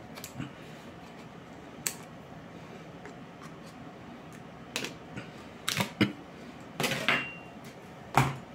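Irregular light clicks and knocks from a silicone soup spoon with a hard end being handled, a few scattered taps with a cluster about two-thirds of the way in.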